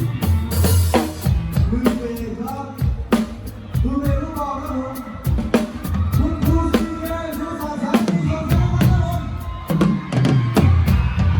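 Thai luk thung band playing live with a singer, the drum kit loud and close: a steady beat of kick and snare hits under the sung melody.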